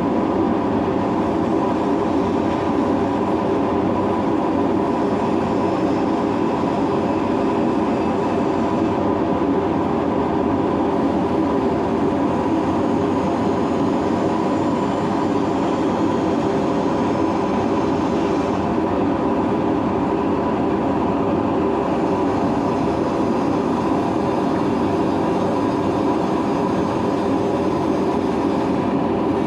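A boat's engine running steadily at constant speed, a loud, even hum with no change in pace.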